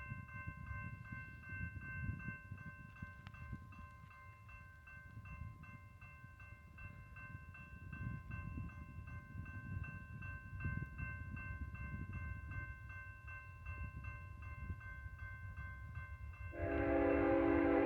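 Low rumble with a steady high ringing that has a quick regular beat. Near the end, the lead BNSF ET44C4 diesel locomotive's air horn starts sounding loudly as the freight train approaches.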